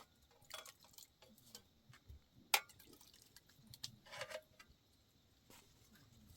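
Scattered light clicks and small clinks, irregularly spaced, with one sharper click about two and a half seconds in.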